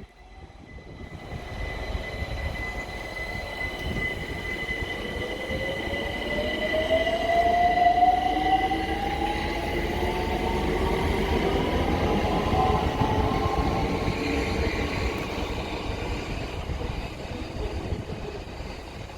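London Overground Class 378 electric multiple unit pulling away, its traction motors whining in a pitch that rises steadily as it gathers speed, over wheel and rail noise. A steady high whistle sounds through the first half, and the train fades near the end.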